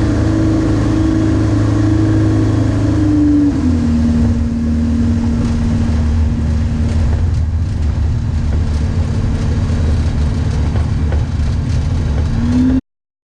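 Just Aircraft Highlander's engine and propeller running steadily. The engine speed drops about three and a half seconds in and holds lower, then rises slightly just before the sound cuts off abruptly.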